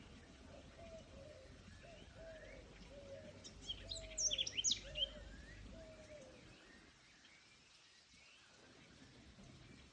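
Forest birds calling: a repeated low, arched call for the first six seconds or so, and a quick burst of high chirps about four seconds in, which is the loudest part. A low background rumble fades out after about six and a half seconds.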